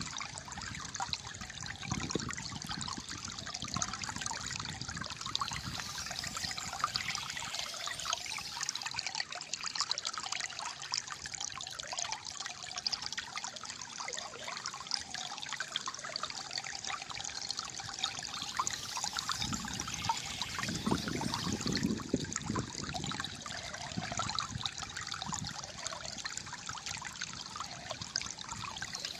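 Shallow flowing water trickling and gurgling steadily.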